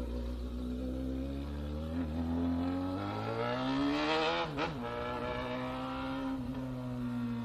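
Honda Hornet motorcycle's inline-four engine pulling away under throttle, its note rising for a few seconds, dipping sharply at a gear change about four and a half seconds in, then holding steady and easing off near the end.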